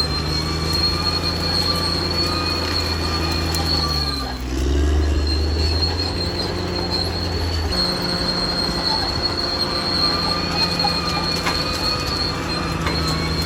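Caterpillar D6R XL crawler bulldozer at work: its diesel engine runs under a steady, high-pitched squeal from the steel tracks. The engine note dips and rises about four seconds in and drops lower a few seconds later.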